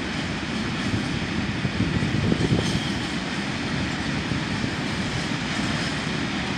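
Steady rumble and hiss of rail vehicles idling at a station, with a few low, gusty swells about two seconds in.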